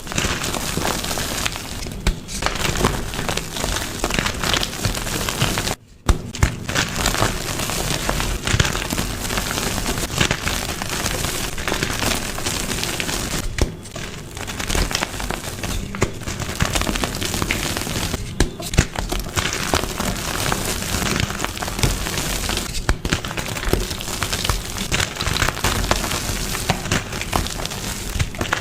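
Dyed gym chalk being crushed, a dense crumbling and crackling with soft crunches, broken by a few brief gaps where one crushing clip gives way to the next.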